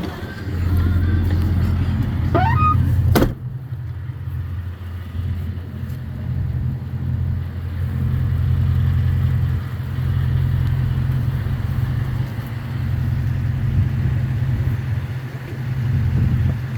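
Ford F-250 Super Duty pickup engine idling with a steady low hum, with one sharp knock about three seconds in, after which the higher sounds fall away.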